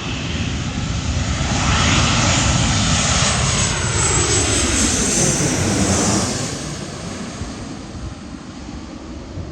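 Jet airliner passing low overhead on landing approach. Its engine noise swells to a peak over a few seconds, the engine whine falls in pitch as it goes by, and then the sound fades away.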